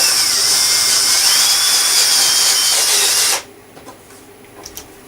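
A high-speed electric motor running with a loud hissing whine for about three and a half seconds, its pitch dipping and then rising, before cutting off abruptly. A few light clicks follow.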